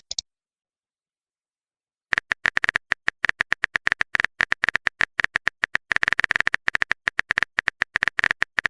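Rapid phone-keyboard typing clicks: a fast, irregular run of short taps that starts about two seconds in, after a brief silence, and goes on until near the end.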